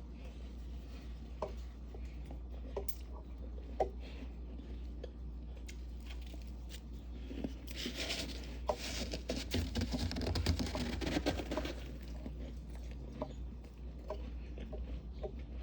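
Freezer frost crunching and crackling: scattered small crisp crackles, with a denser stretch of crunching for several seconds about halfway through.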